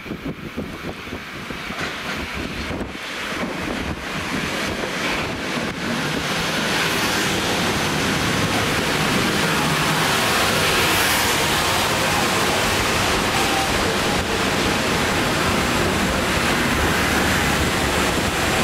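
Metro-North commuter train arriving and running alongside the platform: a rushing of wheels on rail that builds over the first several seconds as the train draws near, then holds steady while the cars pass.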